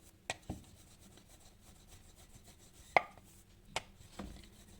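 Wooden rolling pin rolling out a thick disc of semolina dough on a wooden rolling board: quiet rubbing with a few sharp knocks of pin on board, the loudest about three seconds in.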